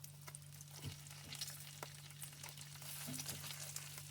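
Strips of food frying on a hot griddle, a faint crackling sizzle with many small pops and spits. A steady low hum runs underneath.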